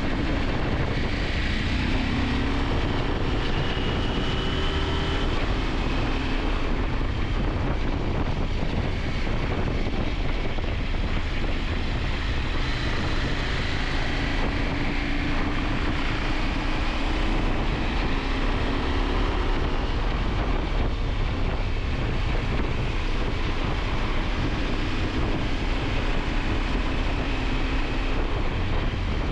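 KTM 890 Adventure's parallel-twin engine running under way, its pitch drifting gently up and down, under heavy wind noise on the action-camera microphone.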